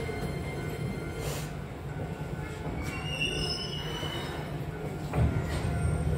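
Keisei electric train running on the rails, a steady low rumble of wheels on track. A brief high wheel squeal comes about three seconds in, and a low thump a little after five seconds.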